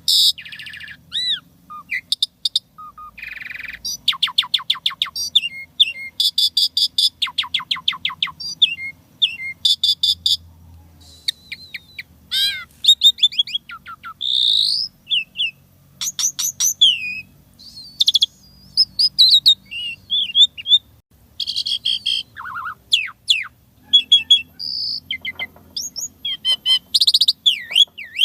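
Asian pied starling (jalak suren) singing a fast, varied song: rapid rattling trills, rising and falling whistled slurs and short harsh notes, delivered in quick bursts with brief gaps.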